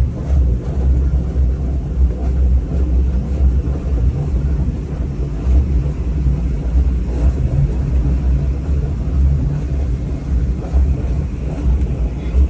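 Engine of a 1987 Sea Ray 39 ft cruiser running steadily during a motor test, a deep, even rumble.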